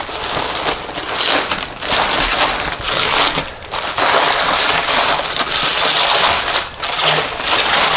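Packaging crinkling and rustling loudly as it is pulled and handled off a robot vacuum, in uneven spells about a second long with brief pauses between them.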